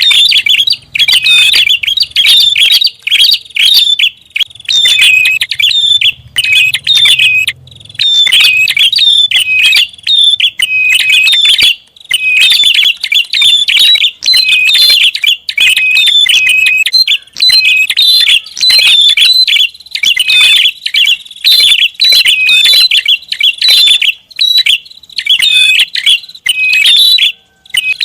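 Prinia (prenjak) song, loud rapid chattering phrases repeated over and over with short breaks, played as a lure call to draw in prinias.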